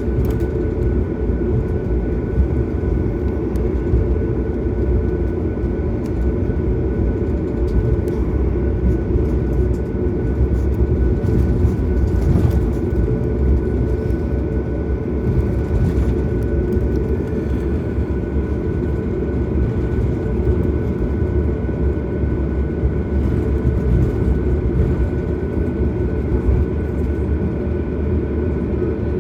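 Cabin noise aboard a Boeing 737 MAX on the ground before takeoff, its CFM LEAP-1B engines at low power: a steady low rumble with a few steady whining tones above it, unchanging throughout.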